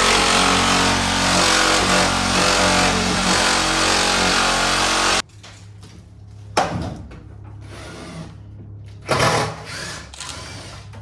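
A power tool runs loud and steady, then cuts off abruptly about five seconds in. After that, two brief, fainter sounds are heard.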